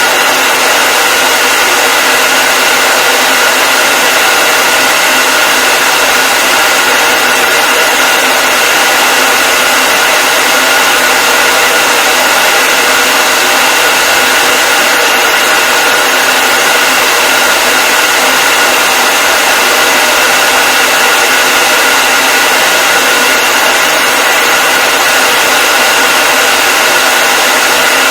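Hair dryer running continuously at a steady speed: an even, loud rush of air over a motor whine held at one pitch.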